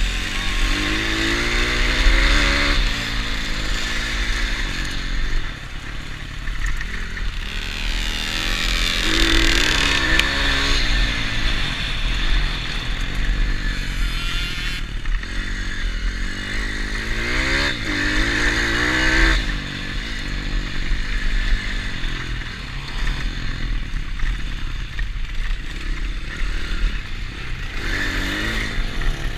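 Pit bike engine revving up and easing off again and again as it is ridden round the track, with the pitch rising in sweeps several times. A steady low rumble lies under it throughout.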